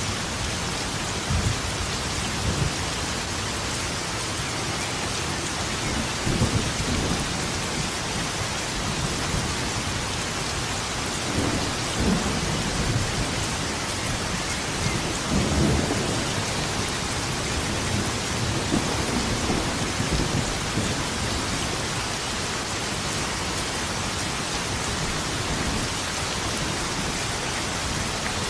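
Steady rain pouring down, with low rolls of thunder rumbling up several times.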